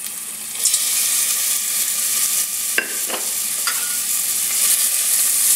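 Soaked, chopped shiitake mushrooms going into hot oil with garlic and ginger in a stainless steel saucepan, sizzling; the sizzle grows louder about half a second in as the wet mushrooms hit the oil. A few light clicks sound near the middle.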